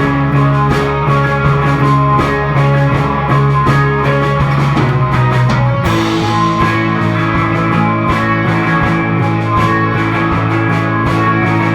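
Live rock band playing: electric guitars, bass and drums. About six seconds in the chord changes with a cymbal crash.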